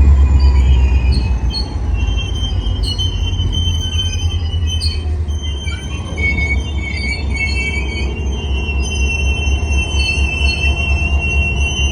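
Train wheels squealing against the rails over a steady low rumble as the train rolls past. Several high, thin squeal tones come and go, growing stronger about halfway through.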